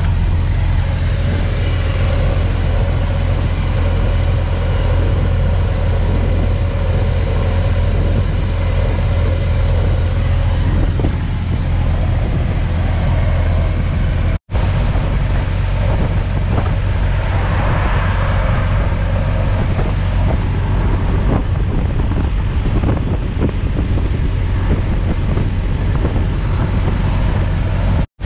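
1920 Ford Model T's four-cylinder engine running steadily at road speed, mixed with wind and road noise in the open cab. The sound drops out for a moment about halfway through.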